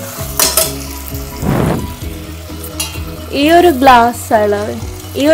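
Vegetables sizzling in a stainless steel pot while a steel spoon stirs them, with a few clinks of the spoon against the pot near the start. A voice is heard over it in the second half.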